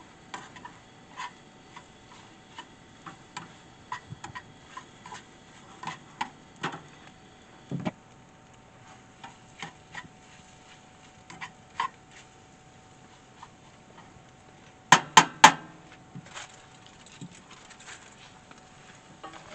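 Cooking utensils clicking and tapping against a pan or cookware in irregular light strokes, with three sharp, louder clacks in quick succession about 15 seconds in.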